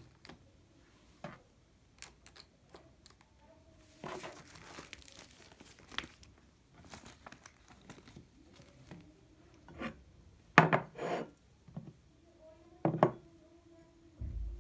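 Small handling sounds: scattered clicks and taps, a stretch of crinkling rustle about four seconds in, and sharper knocks later, the loudest about ten and a half seconds in.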